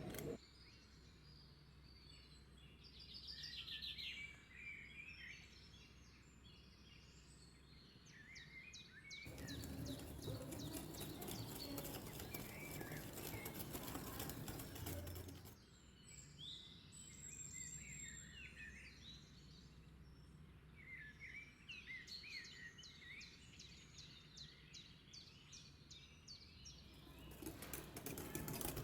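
Songbirds chirping and singing faintly. For about six seconds in the middle, and again near the end, a steady rushing hiss rises under the birdsong.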